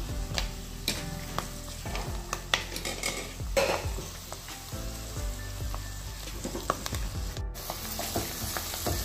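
Fenugreek leaves and onion masala sizzling in oil in a non-stick kadai, with a steel spatula scraping and clicking against the pan as it is stirred. The sound cuts out for a moment about seven and a half seconds in.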